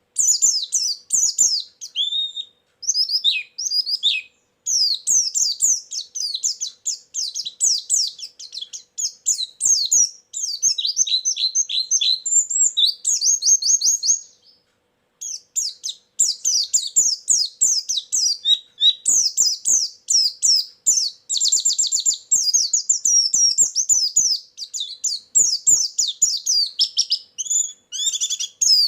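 Pleci (white-eye) singing a rapid, nonstop high twittering song of quick chirps and trills, broken by one short pause about halfway through.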